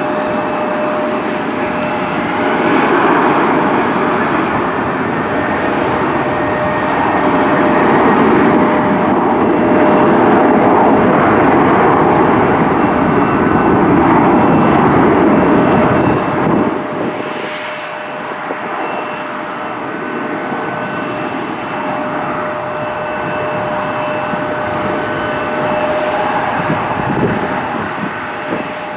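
Jet airliner engines passing close by: a loud, even rush with a steady whine, swelling to a peak in the middle, then dropping off sharply a little past halfway and carrying on at a lower level.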